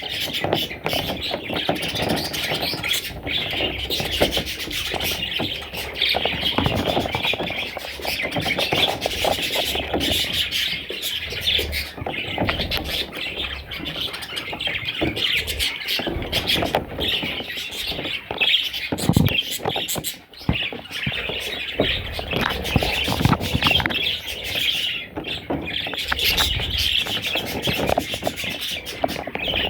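Baby parrots chirping and squawking in a dense, continuous chatter.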